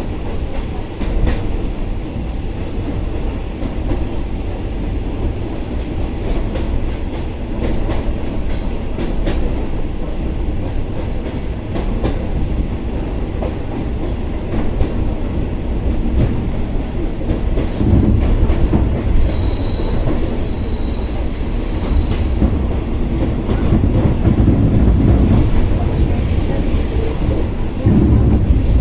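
Commuter train carriage running at speed, heard from inside: a steady low rumble with the clickety-clack of wheels over rail joints. It grows louder in the second half, and a brief thin wheel squeal sounds about twenty seconds in.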